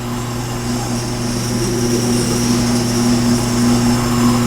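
Old General Electric electric fan running: a steady motor hum under the airy rush of its spinning blades, growing slightly louder over the first few seconds.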